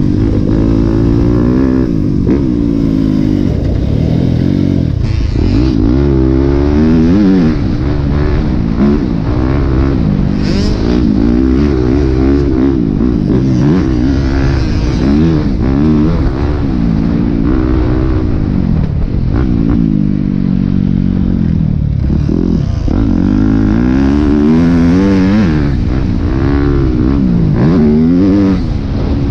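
Four-stroke dirt bike engine, a Yamaha YZ250F, running hard around a motocross track. The revs climb and drop over and over, every second or two, as the rider works the throttle and gears.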